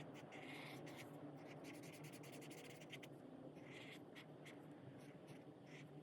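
Chen Rui alcohol marker tips scratching over coloring-book paper in short strokes, with a quick run of back-and-forth strokes in the middle, over a faint steady hum.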